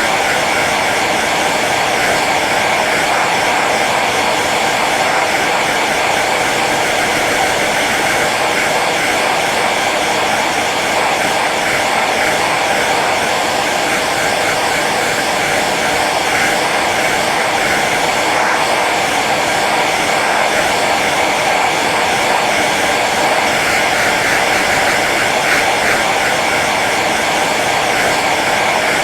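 Hair dryer running steadily on its low setting, a continuous even rush of blown air with a faint motor whine.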